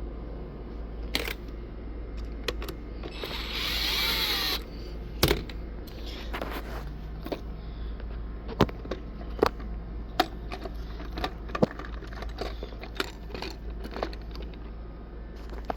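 Hands working small parts of a sprinkler valve while fitting a new solenoid: scattered clicks and taps, with a brief hissing rush about three seconds in.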